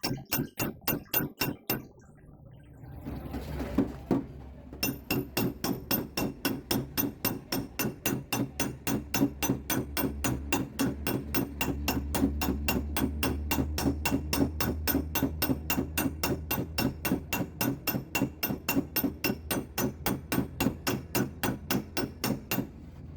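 Rapid, even hammer taps on a Suzuki Swift's steel door panel during paintless dent repair, knocking down the high spots about four or five times a second. There is a short pause a couple of seconds in.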